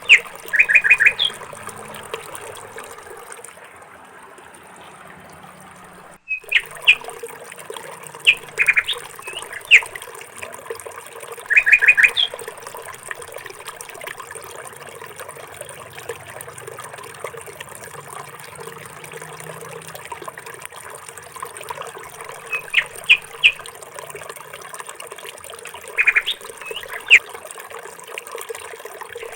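Bird calling over a steady background hiss: quick runs of three or four high notes and single sharp chirps, repeated every few seconds.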